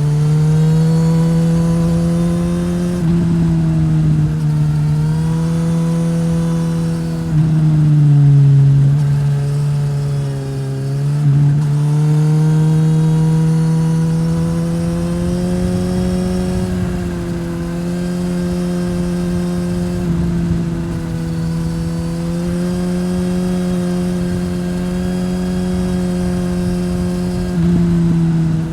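Suzuki GSX-S1000's inline-four engine running through a Yoshimura R-11 slip-on exhaust while riding, holding a steady pitch with a few sudden steps and slow rises as the revs change.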